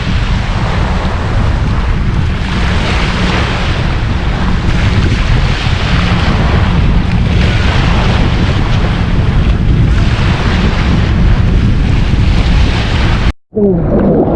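Wind buffeting the microphone with a heavy rumble, over sea water washing that swells in hissing surges every few seconds. It cuts off abruptly near the end.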